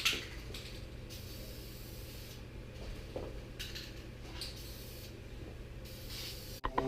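Aerosol spray-paint can hissing in several short bursts of about a second each, as paint is sprayed onto a bare-metal BMX frame.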